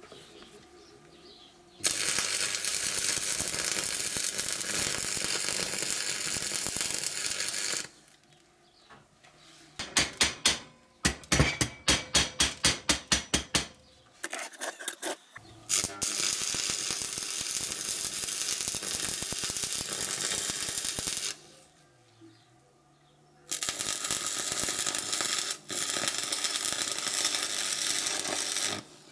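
Stick welding arc crackling and hissing in three runs of several seconds each, as weld points are laid to fix a hydraulic jack to steel tubing. In the pause between the first two runs comes a quick series of sharp taps, about four a second.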